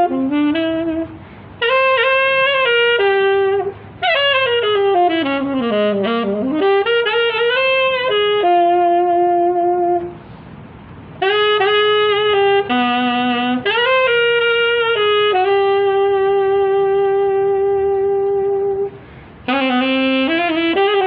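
Solo saxophone playing a slow ballad melody in phrases, with long held notes and a falling then rising run near the middle. Short pauses separate the phrases, and a faint accompaniment continues under them.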